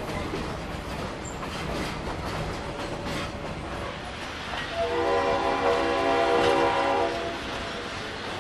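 Passenger train running with a steady rumble and a few faint knocks, and about halfway through the locomotive's horn sounds one steady chord for about two and a half seconds.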